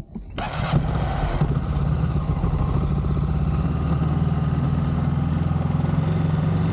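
Motorcycle engine starting about half a second in with a short burst of noise, then idling steadily.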